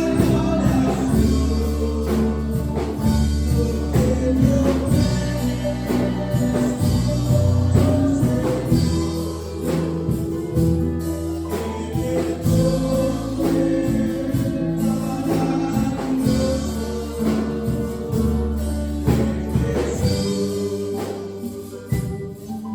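Pentecostal worship song: sung voices over a band with steady bass and percussion.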